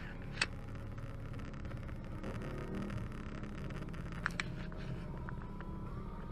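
Steady low rumble of a car driving on the road, with a few sharp clicks about half a second in and again about four seconds in.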